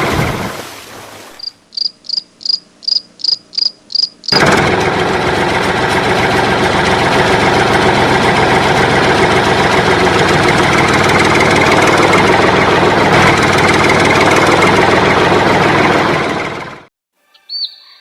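Toy-vehicle engine sound fading out, then a run of about eight short, high-pitched beeps, evenly spaced at about three a second. A steady, noisy engine sound then starts abruptly and runs for about twelve seconds before cutting off near the end.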